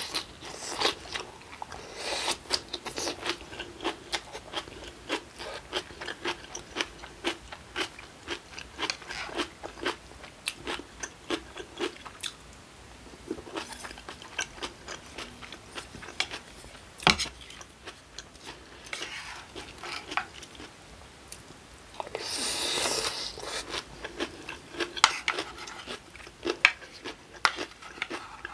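Close-miked wet chewing and crunching of a mouthful of acorn jelly rice with kimchi and vegetables in cold broth, a rapid run of small clicks. There is one sharp knock about midway and a louder, longer noisy sound a few seconds before the end.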